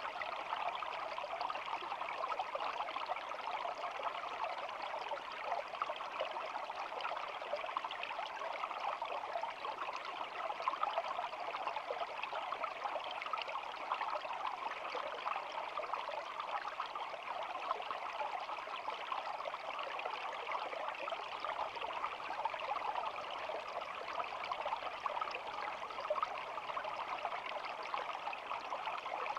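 Shallow stream flowing and babbling steadily, an even rush of water with no breaks.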